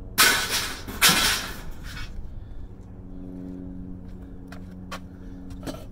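Scrap metal being handled: two loud clattering crashes close together near the start, then a steady engine hum with a few light clicks near the end.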